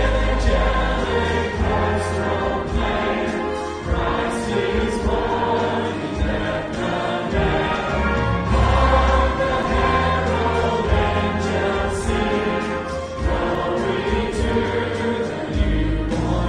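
Choir singing a Christmas carol with musical accompaniment, held notes moving from chord to chord over a sustained bass.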